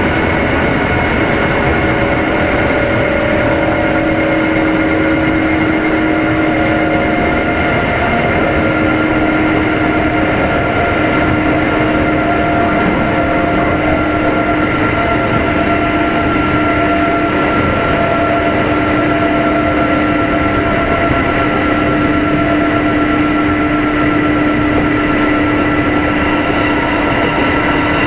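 Kintetsu 2610 series electric train heard from inside motor car Mo 2616, running at a steady speed between stations: continuous rumble of wheels on rail with a steady multi-tone whine from the traction motors and gears.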